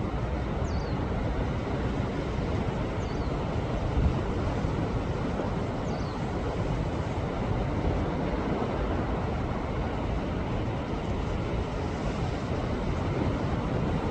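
Sea waves surging steadily against a rocky shore, a continuous wash of surf with a deep rumble. A short high falling call sounds three times in the first half.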